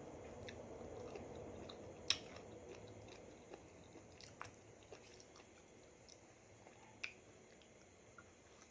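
Faint close-miked chewing of a mouthful of spicy raw salmon salad, with a few sharp clicks about two, four and seven seconds in.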